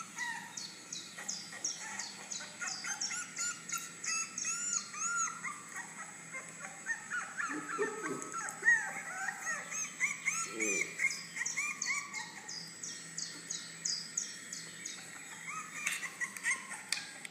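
A litter of puppies yipping and whimpering through a laptop's speakers: many short, high-pitched squeaky cries overlapping several times a second, with a couple of lower cries about eight and eleven seconds in.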